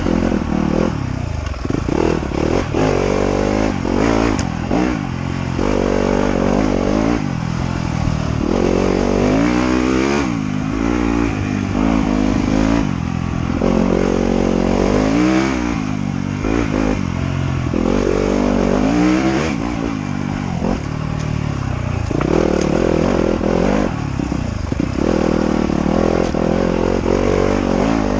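Off-road trail motorcycle engine being ridden hard, its pitch rising and falling every couple of seconds as the throttle opens and closes.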